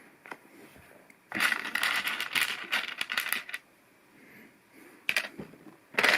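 Loose LEGO Technic plastic pieces clattering as a hand rummages through them. A dense rattle lasts about two seconds, stops, and starts again briefly near the end.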